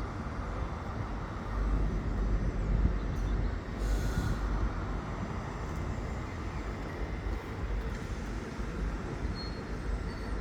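Diesel train engine running with a steady low rumble.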